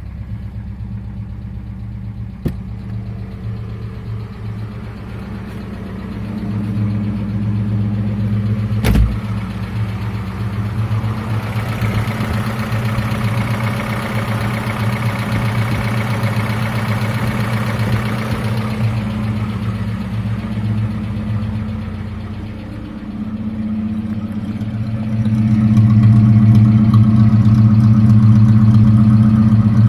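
A Volga's ZMZ-24D four-cylinder engine runs steadily at idle, warming up just after starting, with freshly replaced valve stem seals. There is one sharp click about nine seconds in, and the engine sound grows louder for the last few seconds.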